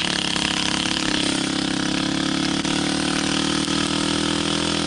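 Small pit bike engine running under steady throttle, its note holding nearly level.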